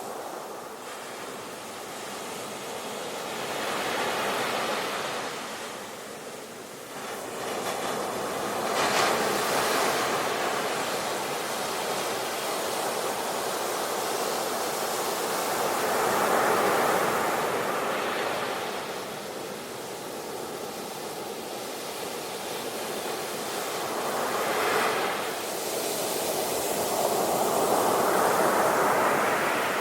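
Sea waves breaking and washing onto a shore, the surf swelling and fading in repeated surges every few seconds.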